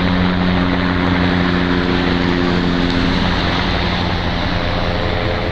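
Helicopter flying low overhead: a steady drone of engine and rotors with several held tones, which drop slightly in pitch near the end as it passes.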